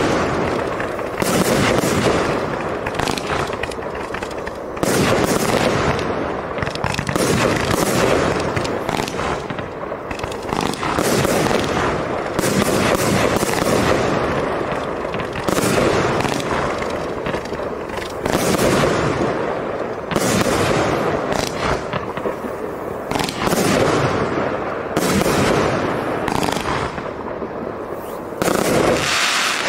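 Two 24-shot fireworks cakes of 1.2-inch tubes firing together with Roman candles: a dense, unbroken run of launch shots and aerial bursts, with one or two loud reports a second.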